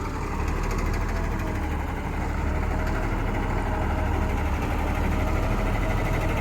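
John Deere motor grader's diesel engine running steadily: a low, even drone with a faint whine over it.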